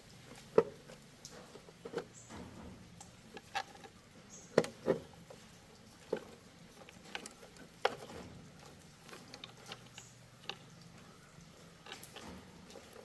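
Scattered light clicks and knocks, a dozen or so at uneven intervals, over a faint steady low hum.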